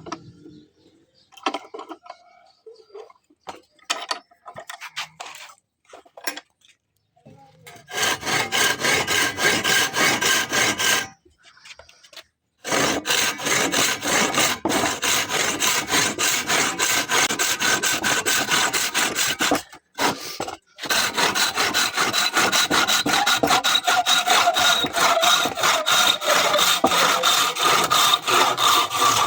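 A few scattered light taps, then long runs of fast, even rasping strokes of a hand tool working a piece, broken by two short pauses.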